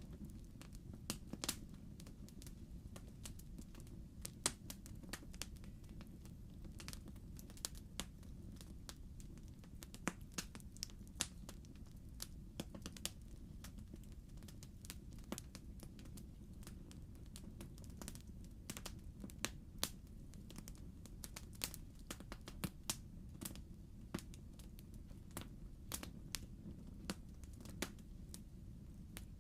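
Wood logs burning in a fireplace: frequent irregular crackles and pops over a steady low rumble of the fire.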